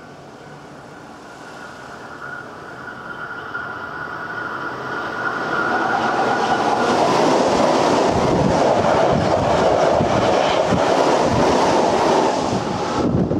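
Hankyu electric train approaching and passing at speed right beside the track: it grows louder over the first half into a loud, steady rush of wheels on rails, then cuts off suddenly near the end.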